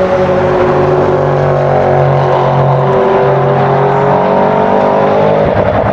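Sports car engine running at high revs, its pitch drifting slowly, with a break and a change in pitch near the end.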